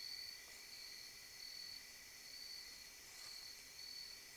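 Faint insect chirping, likely crickets: a high chirp repeating evenly in short pulses, over a faint steady outdoor background.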